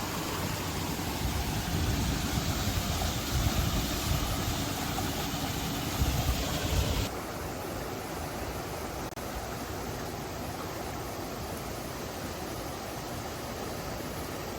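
Steady rush of flowing water, louder with a deep rumble for the first seven seconds or so, then dropping abruptly to a quieter, even hiss.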